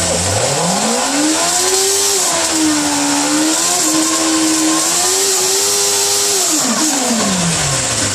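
Motorcycle engine revving up hard, holding high revs with small rises and dips as it is ridden through a turn, then dropping back down near the end.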